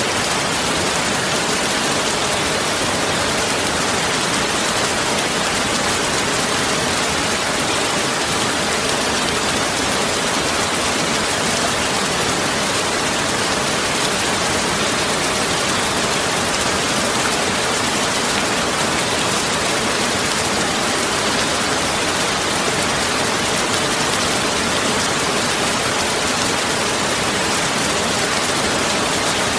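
Steady heavy rain, an even, unbroken hiss with no thunder.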